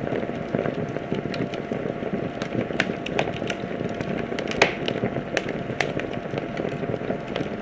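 Wood fire crackling in a fireplace: a steady low hiss under frequent sharp pops and snaps, the loudest pop about four and a half seconds in.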